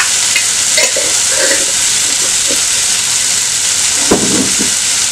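Chopped onions and tomatoes frying in a nonstick pan on a gas stove: a steady sizzling hiss.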